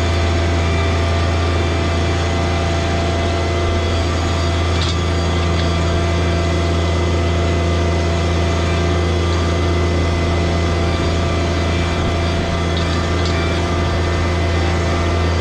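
John Deere 1023e compact tractor's three-cylinder diesel engine running at a steady speed, a deep even hum with no revving.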